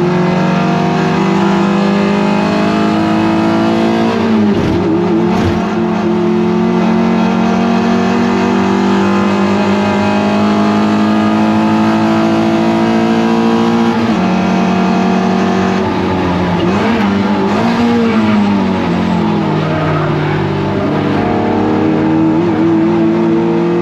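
Toyota MR2 race car engine held at high revs under load. The revs drop sharply about four seconds in and again a little past halfway, with a dip and recovery as the car slows for corners, then climb again near the end.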